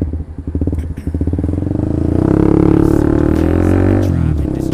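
Honda CB150R's single-cylinder engine, breathing through an aftermarket Lone Ride exhaust, idling with a steady pulse, then revving up for a couple of seconds and dropping back to idle near the end. The exhaust is not very noisy.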